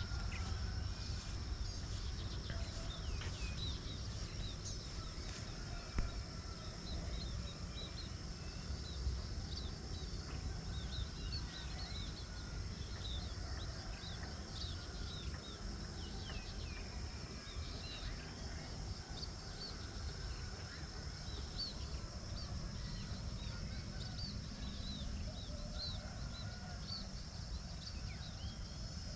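Many small birds chirping in short, scattered calls over a rice field, with a steady high-pitched whine and a low rumble of wind on the microphone underneath.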